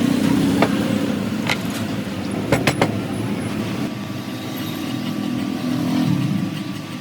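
A motor running steadily with a low hum, with a few sharp clicks or knocks: one under a second in, one about a second and a half in, and a quick cluster near three seconds.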